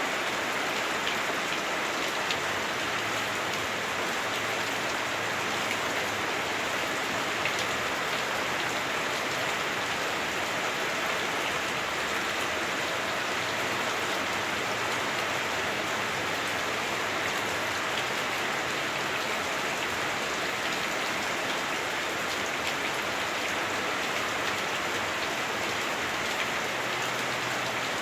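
Heavy rain drumming steadily on a house roof, heard from indoors as a dense, even hiss with scattered drop ticks.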